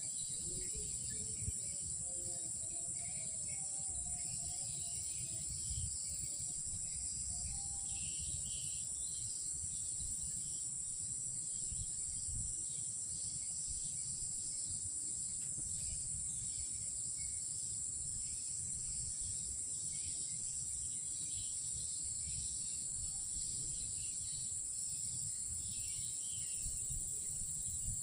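Night insect chorus: crickets holding one steady, high-pitched drone throughout, over a low rumble, with faint wavering calls of some other animal in the first eight seconds or so.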